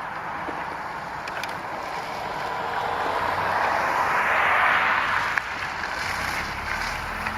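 Wind buffeting the microphone, swelling in the middle, with a small garden-tractor engine becoming faintly audible underneath near the end.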